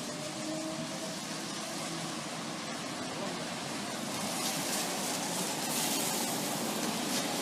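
Steady hiss of road traffic on a street, swelling a little past the middle as a car goes by.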